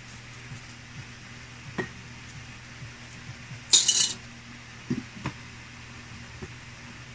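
Coins clinking in a glass jar as a hand scoops them out, with one brief loud rattle about four seconds in and a few lighter knocks before and after, over a steady low hum.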